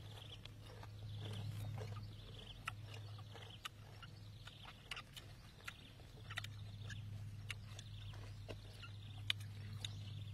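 Eating sounds: scattered small clicks and crunches of chewing and handling pieces of cooked meat, over a steady low hum.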